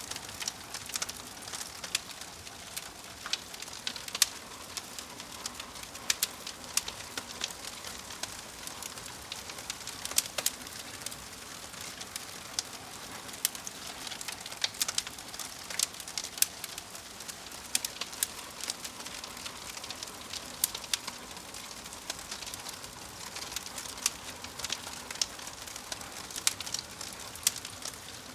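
Logs burning in a fireplace: irregular sharp crackles and pops over a steady soft hiss.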